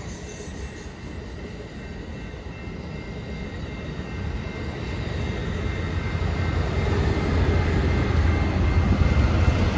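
Amtrak Pacific Surfliner bi-level passenger train rolling past until its cab car clears the crossing. A low diesel rumble from BNSF freight locomotives grows steadily louder through the second half.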